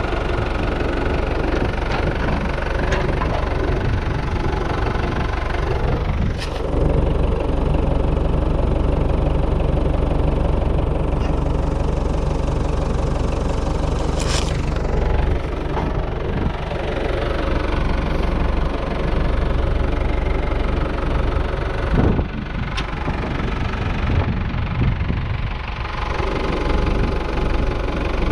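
An engine running steadily at idle, with a few sharp clicks or knocks now and then.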